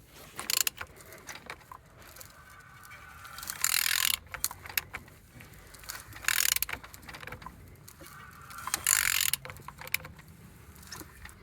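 8V40 engine being turned over by hand with a ratchet on the crankshaft: a run of ratchet clicks and mechanical creaks, with three louder hissing bursts as cylinders come up on compression. The engine turns freely with good compression.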